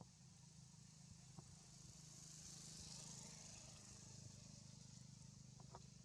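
Near silence: faint outdoor ambience, with a high hiss that swells and fades about halfway through, a steady low hum, and a few faint clicks.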